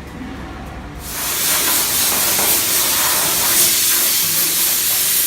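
Loud, steady hissing spray that starts abruptly about a second in, after a low rumble.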